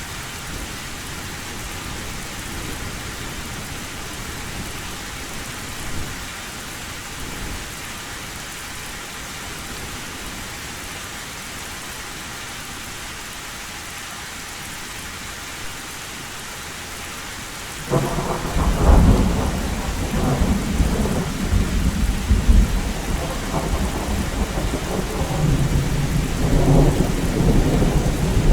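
Steady heavy rain drumming on an old metal roof, then a loud thunder rumble breaks in suddenly about two thirds of the way through and keeps rolling to the end.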